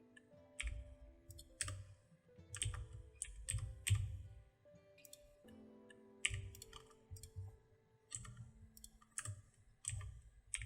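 Irregular sharp clicks and taps at a computer, about a dozen of them in uneven clusters, over soft background music with sustained notes.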